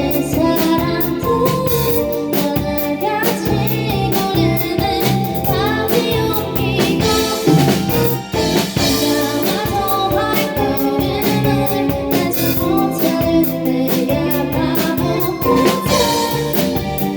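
A live indie band playing a song, with a drum kit keeping a steady beat under sustained keyboard and guitar chords and a voice singing over them.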